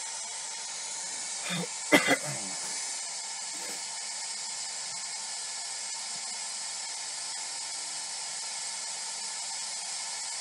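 Steady white-noise static hiss from an electronic noise device used for recording EVPs. About two seconds in, a sharp click and a brief voice-like sound cut through it.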